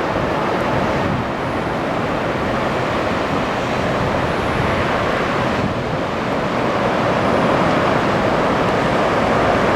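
Surf breaking on a sand beach, mixed with wind on the microphone: a steady wash of noise that swells slightly over the last few seconds.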